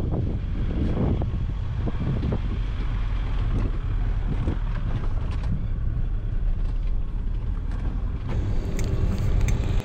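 A car driving over rough ground, pushed hard: a steady low rumble of engine and tyres, with scattered knocks and rattles as it bumps along.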